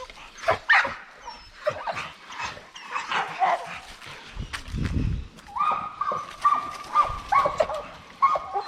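Dogs barking and yipping in short sharp calls. From about halfway in, a high-pitched whine is held with repeated breaks and dips.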